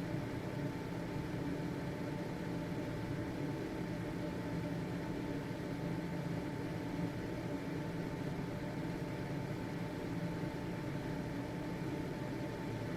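Household exhaust fan running steadily: an even motor whir with a faint steady whine and low hum.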